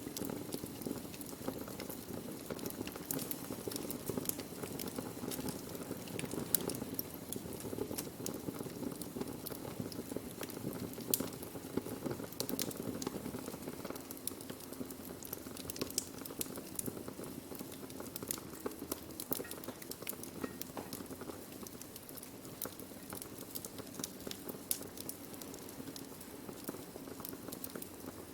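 Wood fire burning: a steady low rush of flames with frequent sharp crackles and pops of burning wood.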